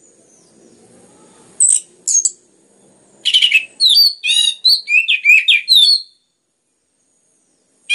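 Orange-headed thrush singing: two short high calls, then about three seconds of rapid, varied song notes, cutting off suddenly about six seconds in.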